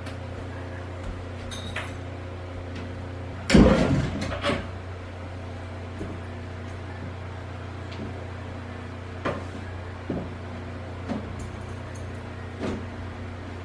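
A loud knock and clatter about three and a half seconds in, followed by a few lighter single knocks, over a steady low hum.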